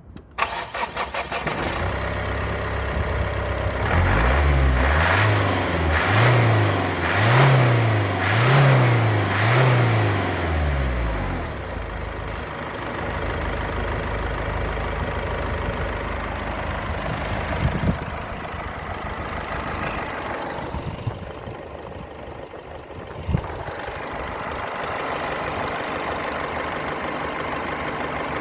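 2011 Mazda CX-7's engine cranked over by the starter and catching after about two seconds, then revved five times in quick succession before settling into a steady idle. Two short knocks sound during the idle.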